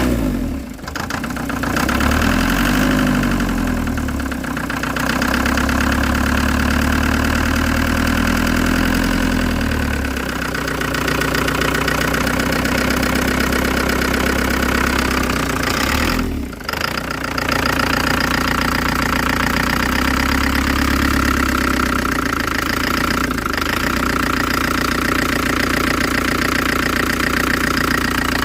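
Mercedes-Benz Vito W638's OM601 four-cylinder diesel engine running at idle, with knocking noises whose cause the owner cannot pin down.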